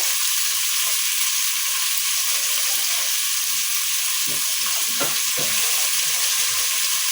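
Duck pieces frying in a pot, sizzling steadily in the plentiful fat the meat has released. A few faint soft knocks come past the middle.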